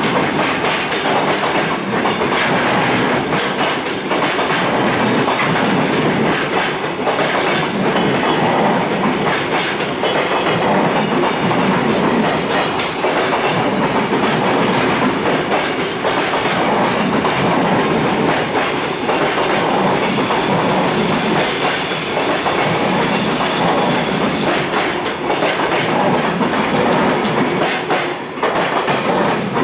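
Loaded Koki container wagons of a long freight train rolling past as it slows into the station: a steady loud rumble of steel wheels on rail, with the clickety-clack of wheels over rail joints and some thin wheel squeal.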